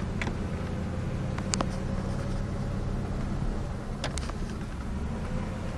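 Truck driving slowly, heard from inside the cab: a steady low engine and road rumble, with a few faint clicks.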